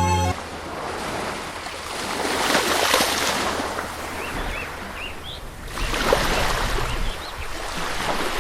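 Wind rushing over the microphone outdoors, swelling and easing in gusts, with a few short bird chirps in the middle. Background music cuts off just at the start.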